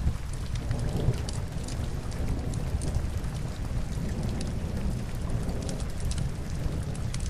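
Steady rain with a deep rumble underneath, and scattered short, sharp crackles from burning logs in a fireplace.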